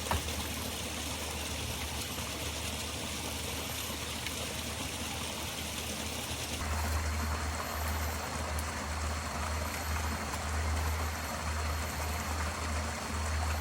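Stream water flowing steadily over rocks, a continuous rushing hiss. About seven seconds in the sound shifts: the higher hiss drops and a low fluttering rumble comes up.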